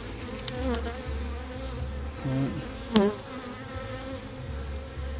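Honeybees buzzing in a steady hum around an open hive of a strong colony during an inspection. A single sharp click comes about three seconds in.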